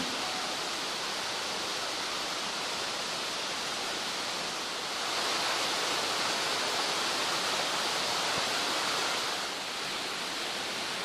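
Stream water rushing steadily over rocks, swelling a little louder in the middle before settling back.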